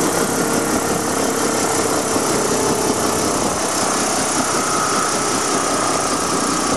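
Robinson R44 Raven II helicopter running, a loud steady engine and rotor noise with a faint steady hum in it.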